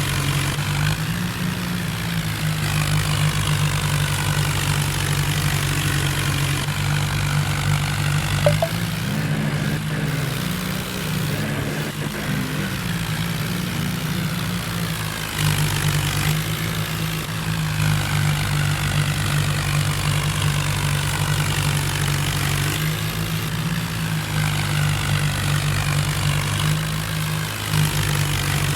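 John Deere tractor's diesel engine running steadily, its pitch rising slightly about nine seconds in and settling back a few seconds later.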